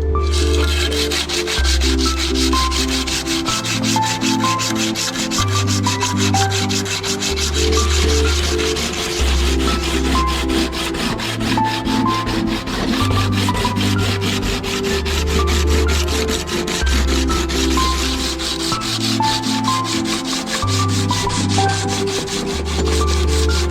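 Sandpaper rubbing back and forth in a continuous scratchy hiss, over background music with a slow bass line.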